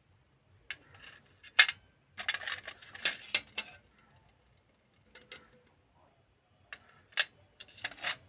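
Dry earthenware clay pot cracking and crunching as it is crushed by hand: a sharp crack about a second and a half in, a dense run of crunching for about a second and a half after it, and more crackles near the end.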